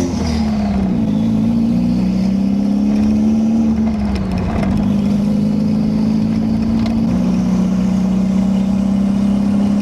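The MR2's 3S-GTE turbocharged four-cylinder, running loud through an open downpipe while driving. Its pitch falls and rises with the throttle a few times in the first four or five seconds, then holds steady. A faint high turbo whistle from the CT26 rises with it near the start and again near the end.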